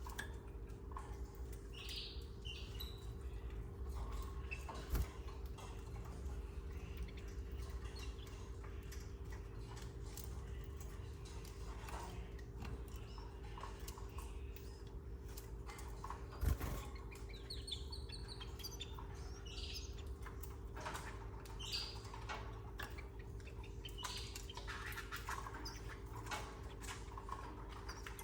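Canaries giving short, high chirps every few seconds over a steady hum, with faint ticking and scratching from the nest. Two sharp knocks, about five seconds in and just past the middle, are the loudest sounds.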